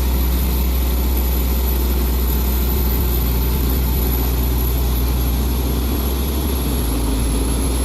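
Heavy truck's diesel engine running steadily with a deep, even drone.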